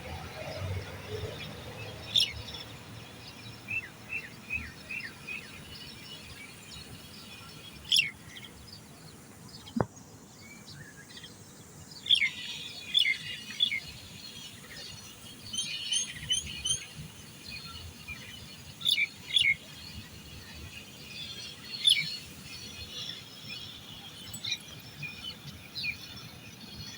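Birds chirping and calling on and off in short, sharp notes, with a quick run of about five chirps about four seconds in.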